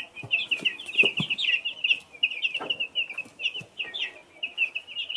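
Baby chicks peeping in a quick, continuous run of short, high-pitched chirps, with a few soft knocks underneath.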